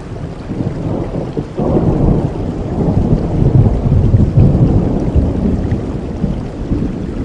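Steady rainfall with a low rumble of thunder that swells about a second and a half in, is loudest in the middle and slowly eases off.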